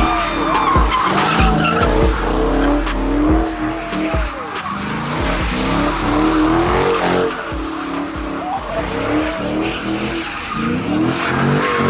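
Car engine revving hard in repeated rising and falling sweeps while the tyres squeal and skid: a burnout.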